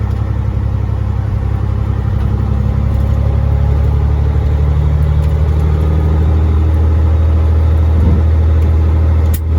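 A Freightliner FLD120's Caterpillar 3406E inline-six diesel running as the truck drives, heard from inside the cab: a steady low drone that grows a little louder over the first few seconds. A short click sounds near the end.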